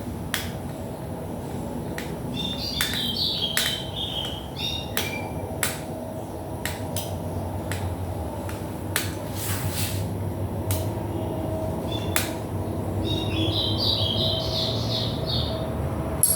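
Scattered sharp clicks and taps of small parts and tools being handled while a stereo is taken apart. Twice a bird chirps in short high runs. A low rumble rises underneath toward the end.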